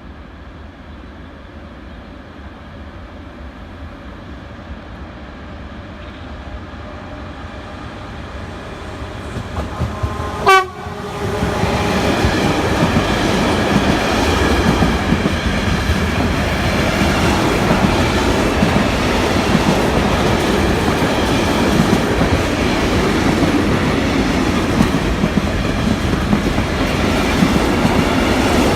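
A train approaching through a station, growing steadily louder, sounds one short horn blast about ten seconds in. Right after, it passes close by, and the loud, steady noise of the passing train holds to the end.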